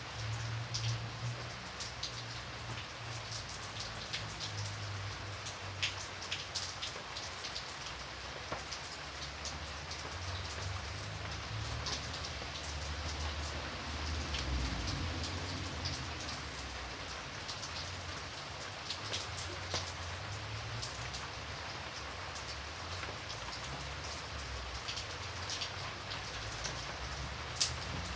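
Steady rain falling, with individual drops pattering sharply on hard surfaces over a low, soft rumble.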